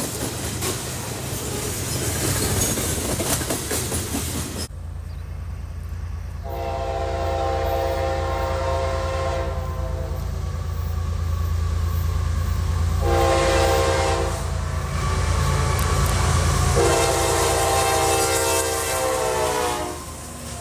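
Diesel freight locomotive sounding its multi-chime air horn over a steady low engine rumble: a long blast, a short one and a final long one that sags in pitch as it ends, the closing part of a grade-crossing horn signal. Before the horn, a few seconds of rushing train noise.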